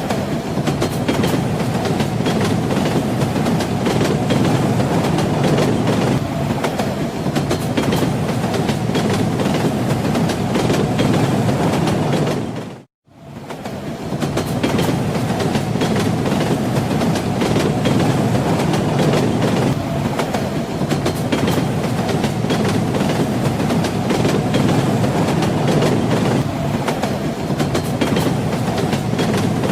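Train wheels clattering over the rail joints over a steady rolling rumble. About 13 seconds in, the sound fades out to silence for a moment and fades back in.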